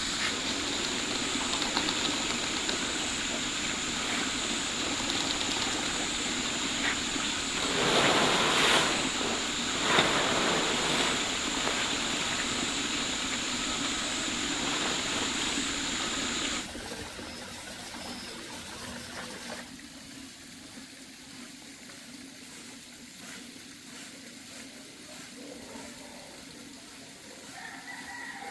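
Steady rush of running water, with two brief louder surges; about two-thirds of the way through it cuts off abruptly to a much quieter trickle.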